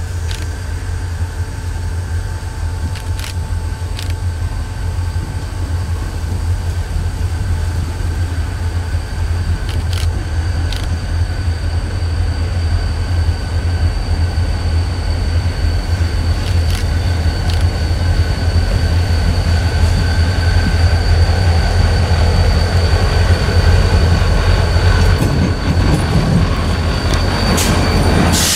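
Freight train rolling past: a steady low rumble with occasional clicks from the wheels and a thin, steady high wheel squeal, growing louder toward the end.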